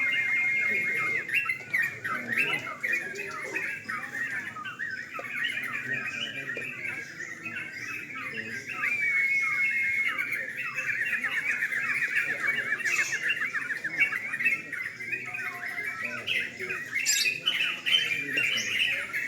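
Several yellow-vented bulbuls (trucukan) singing at once, a dense run of overlapping chattering phrases. A steady whistled note is held near the start and again about half-way, followed by a fast trill.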